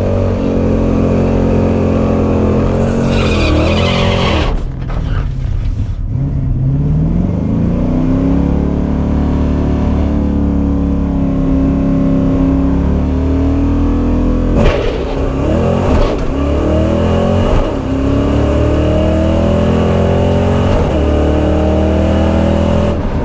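1989 Mustang GT's 5.0-litre V8 pulling hard under acceleration, its pitch climbing, then dropping for a gear change about five seconds in and again near fifteen seconds before climbing once more.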